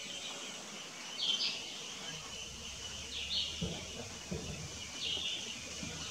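A bird gives three short two-part chirping calls about two seconds apart, over a steady high hiss of background noise, with a few low thuds around the middle.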